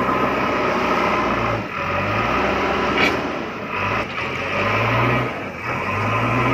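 Small motor of a homemade mini tractor running steadily with a low hum, its sound dipping briefly three times, with a short click about three seconds in.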